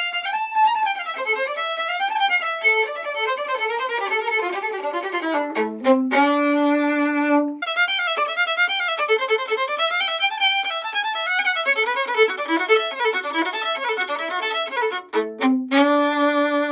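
Solo violin played fast, running up and down in quick shredding passages. The runs are broken by a long held low note about six seconds in and another near the end.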